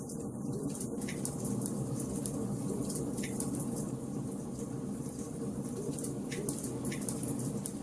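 Wood fire burning in a fireplace: a steady low rumble of burning logs with irregular sharp crackles and pops scattered throughout, a few louder pops standing out.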